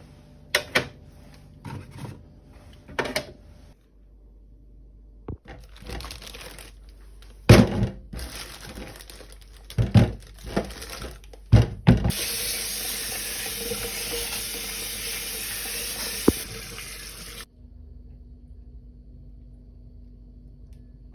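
A series of knocks and clatters, then a tap running steadily into a sink for about five seconds before it is shut off sharply.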